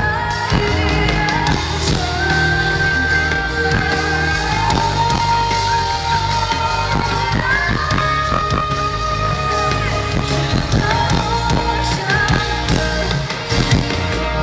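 Loud live pop music from a festival stage: a band, with drums and bass coming in right at the start, under a long held melody line.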